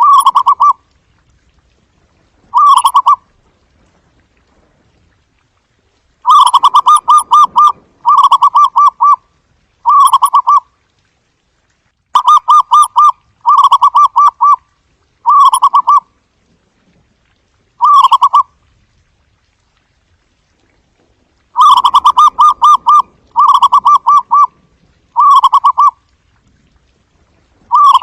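Zebra dove calling: about a dozen phrases of rapid, staccato cooing notes, some long and some short, with gaps of silence between them.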